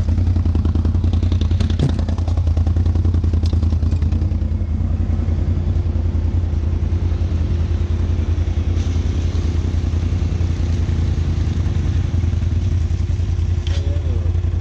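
ATV engine running steadily at low revs, a continuous even low drone with a few brief knocks in the first few seconds.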